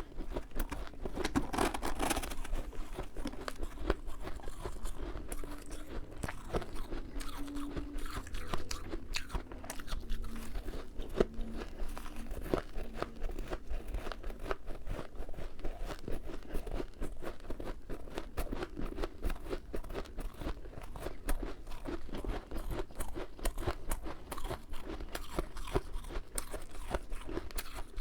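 Close-up chewing and crunching of powdery freezer frost (snow ice), a dense, continuous run of small crisp crunches.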